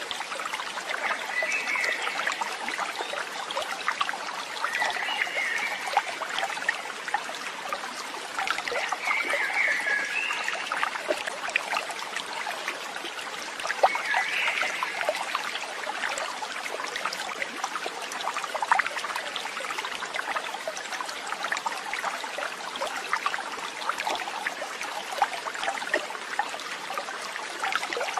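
Steady running water of a stream, with four short bird chirps in the first half.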